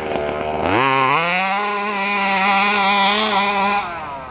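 Two-stroke 32cc Robin gas engine of a 1/5-scale RC truck revving. It climbs sharply to high revs about a second in, holds near full throttle for about three seconds, then drops off near the end.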